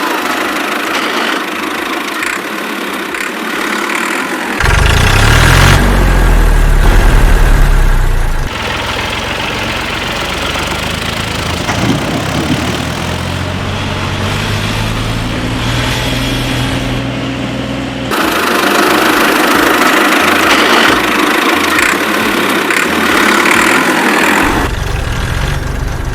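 Tractor engine running and idling in several sections that change abruptly, with a louder, deeper stretch a few seconds in.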